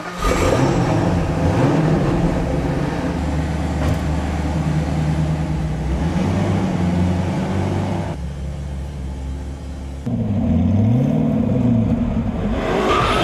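SSC Ultimate Aero's twin-turbo V8 started by push button, then revved several times, the pitch rising and falling with each blip.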